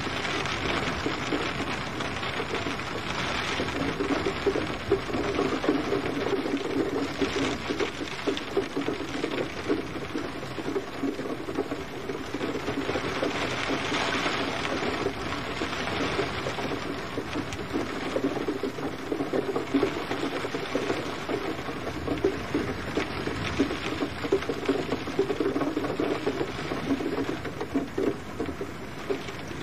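Steady rain falling, a dense pattering that swells and eases a little every few seconds.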